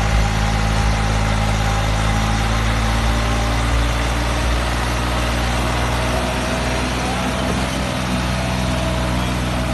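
New Holland 3630 tractor's three-cylinder diesel engine running steadily, its pitch shifting slightly a few seconds in.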